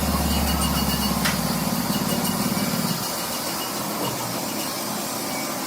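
A motor runs with a steady low hum, then cuts off about three seconds in, leaving a steady hiss.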